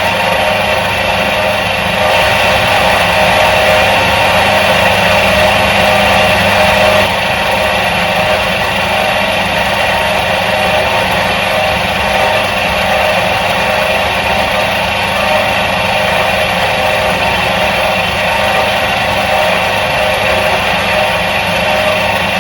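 Electric motor of a 1977 Soviet washing machine running steadily: a constant hum with several steady whining tones, the low part of the hum easing slightly about seven seconds in.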